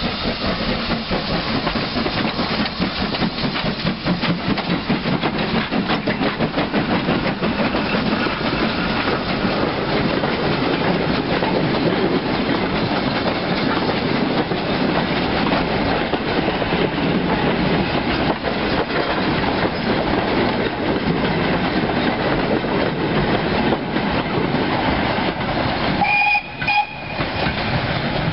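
Steam-hauled goods train of four-wheeled flat wagons rolling past close by, the wheels clattering steadily over the rail joints. A brief high-pitched tone sounds near the end.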